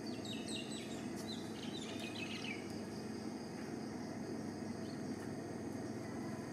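Small bird chirping a quick run of high, falling notes in the first two or three seconds, over a steady outdoor background hum.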